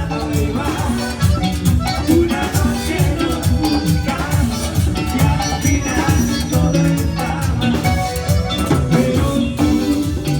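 A band playing Latin dance music with a steady beat, strong bass and percussion.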